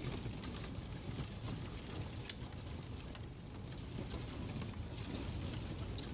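Fireplace crackling: a steady hiss and low rumble of burning with scattered sharp clicks and pops.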